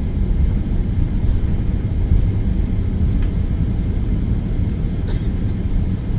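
Steady low rumble in the cabin of a Boeing 787-9 during landing, with two faint brief ticks, about three and five seconds in.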